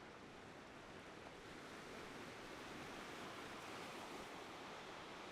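Faint, steady wash of ocean surf, swelling slightly in the middle.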